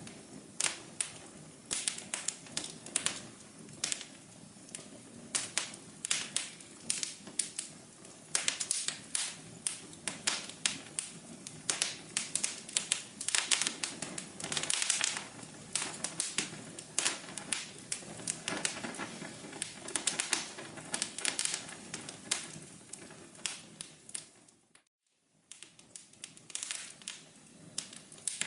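Wood fire crackling: dense, irregular snaps and pops over a steady low rush of burning. The sound cuts out completely for about half a second near the end, then the crackling resumes.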